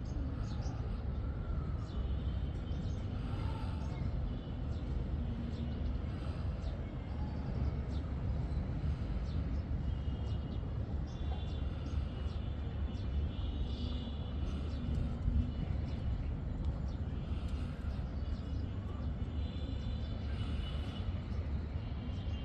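Outdoor ambience: a steady low rumble with faint, short high-pitched chirps every few seconds, like small birds calling in the distance.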